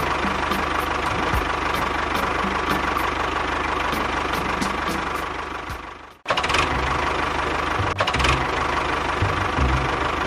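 A small engine running steadily, with a low rumble and a held whine. It fades out about six seconds in and cuts back in sharply a moment later.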